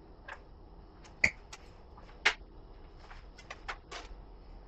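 Scattered clicks and knocks of hardware being handled during the mounting: two louder knocks about one and two seconds in, then a quick run of lighter clicks near the end.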